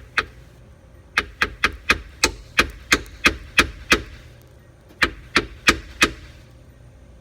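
A hammer rapping on the car's electric fuel pump in quick bursts: a run of about ten sharp knocks, a pause, then four more. The pump is being knocked to free it because it is not running.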